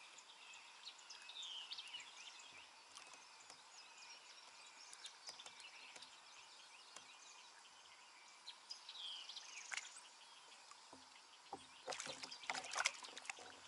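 Faint birdsong: scattered chirps and short whistled glides over a soft steady hiss, with a quick cluster of clicks and knocks about twelve seconds in.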